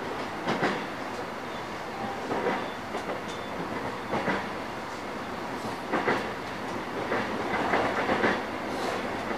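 Running sound of a JR East E233-8000 series electric train on the Nambu Line, heard from inside the car: a steady rolling noise, with the wheels clattering over rail joints about every two seconds.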